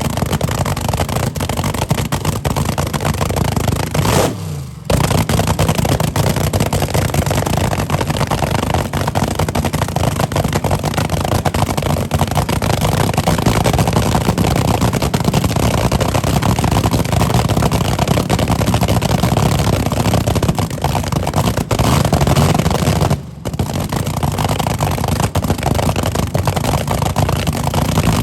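Car engines running hard and revving, with a loud, dense rush of noise over the engine note. It breaks off briefly twice, about four seconds in and again about twenty-three seconds in.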